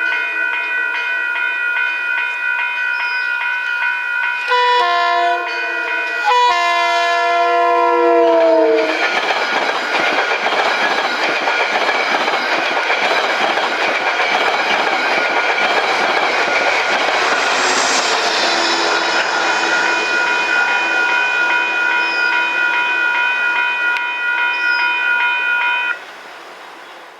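Train horn sounding a steady chord as a train approaches, its pitch dropping as the train passes about seven to nine seconds in. This is followed by the loud running noise of the train going by for most of the rest. The sound drops off abruptly near the end.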